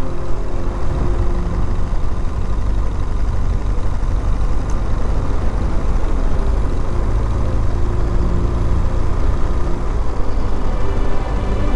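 BMW R1200GS boxer-twin engine running while the motorcycle is ridden at a steady pace, with a strong low rumble beneath and a slight rise and fall in engine pitch.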